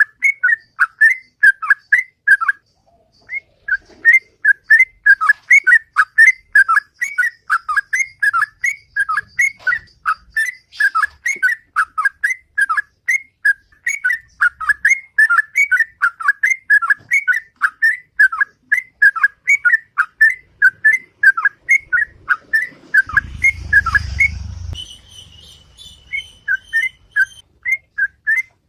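Yellow-vented bulbul (trucukan) singing its 'ropel': a long, loud run of short whistled notes at about three a second, broken by a brief pause about three seconds in. A low rumble comes in briefly near the end.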